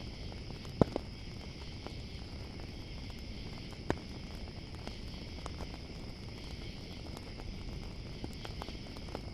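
Campfire crackling with a few sharp pops, the loudest about a second in and another near four seconds, over a steady high chirring of crickets.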